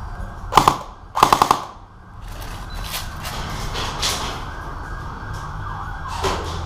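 Two short bursts of rapid fire from an airsoft gun: a brief one about half a second in, then a slightly longer burst of about half a dozen quick shots.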